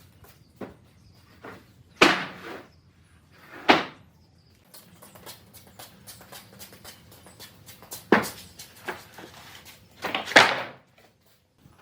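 A series of sharp knocks from wooden pieces being handled: four loud ones, about two seconds in, near four seconds, about eight seconds in and just after ten seconds, with fainter taps between them.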